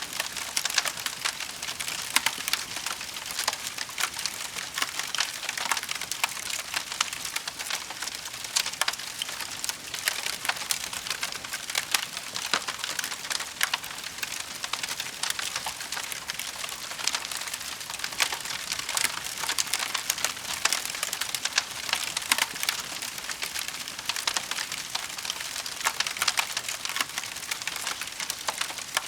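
Wood fire burning in a fireplace, with a continuous dense crackle of small pops and snaps over a steady hiss.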